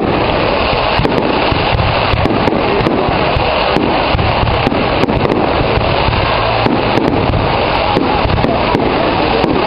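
Fireworks display: a dense, unbroken barrage of overlapping bangs and crackles, with sharp cracks several times a second.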